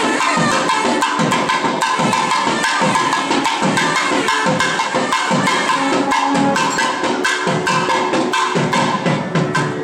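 Traditional temple music: fast, dense drumming, with a reed pipe holding notes underneath.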